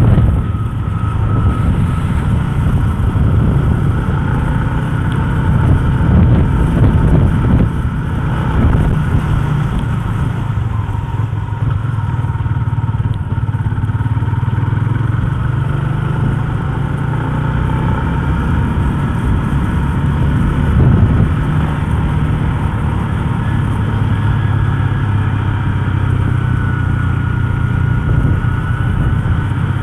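Yamaha Sniper 150 underbone motorcycle's single-cylinder four-stroke engine running steadily under way.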